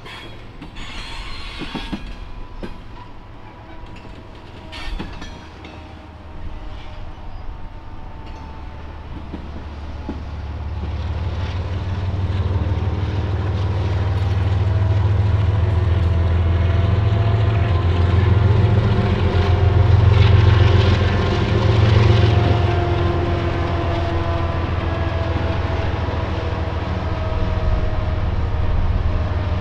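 Union Pacific freight train rolling past: tank cars and boxcars clicking over the rail joints, with thin drifting squeals from the wheels. From about ten seconds in, the low drone of the train's diesel locomotives grows louder and is strongest a little past the middle.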